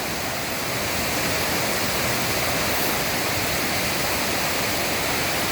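Steady rush of a small woodland stream tumbling down a rocky cascade.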